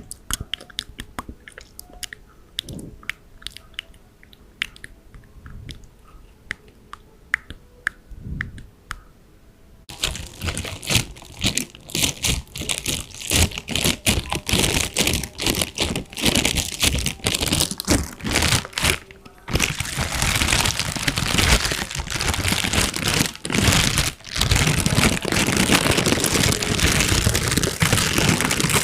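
Crunching and crinkling close to the microphone. Sparse light clicks at first, then dense crunching from about a third of the way in, which turns into a continuous crackling rustle about two thirds of the way in.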